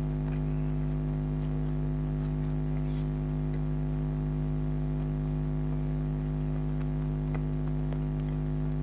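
Mouth-close chewing of chicken karahi and naan, heard as faint scattered small clicks and wet sounds. A steady low hum with several even tones runs under it and is the loudest thing throughout.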